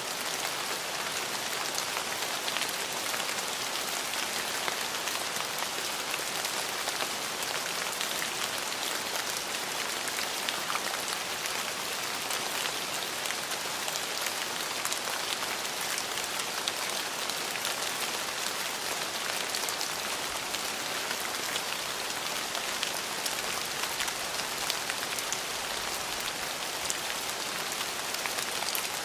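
Steady rain falling, a constant hiss dotted with many close individual drop ticks.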